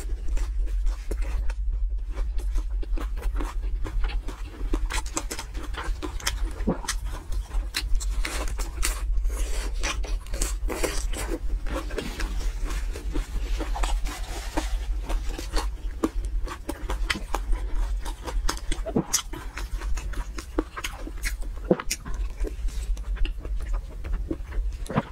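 Close-miked eating sounds: chewing with many small wet mouth smacks and clicks, irregular and continuous, over a steady low hum.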